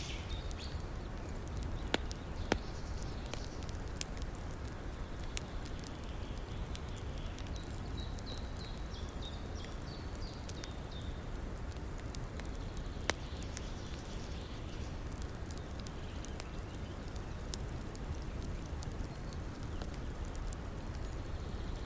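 Campfire crackling, with a few sharp pops, over the steady rush of a river. A bird chirps faintly in the middle.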